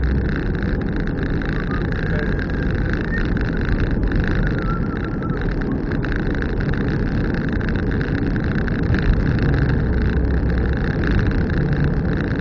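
Car being driven along a road: steady engine and tyre noise.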